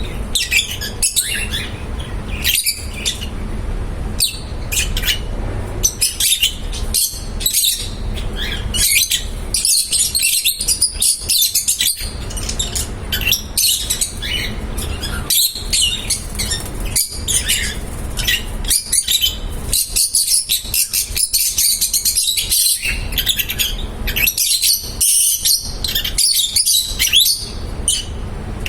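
A group of lovebirds chirping and calling continuously, with many short high-pitched chirps overlapping, over a steady low rumble.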